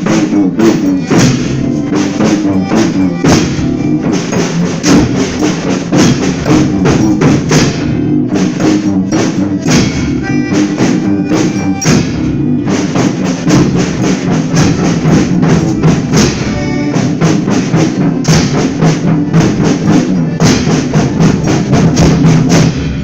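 Folia ensemble playing an instrumental passage between sung verses: a steady drum and tambourine beat over sustained instrument tones.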